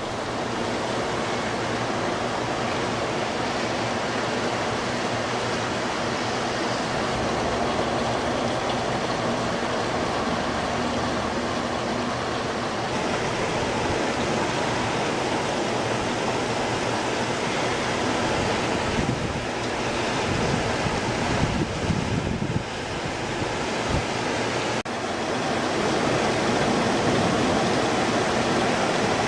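Torrential rain pouring down in a steady, dense hiss. Low rumbles and a few knocks come through about twenty seconds in, with a sharp click shortly after.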